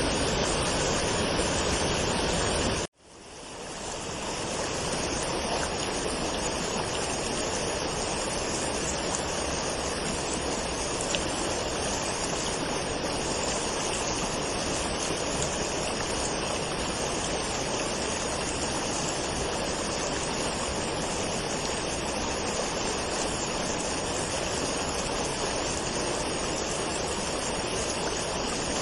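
Waterfall rushing steadily. About three seconds in, the sound cuts out suddenly and fades back in over a second or so.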